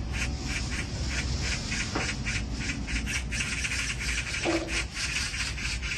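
Rapid, evenly repeated animal calls, about four to five short pulses a second.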